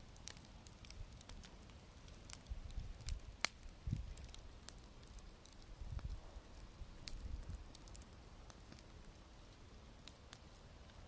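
Wood fire crackling, with irregular sharp pops and snaps. The loudest pop comes about three and a half seconds in.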